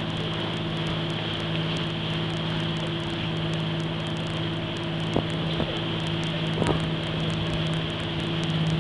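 A tour boat's engine running at a steady cruising drone, with wind and water noise around it.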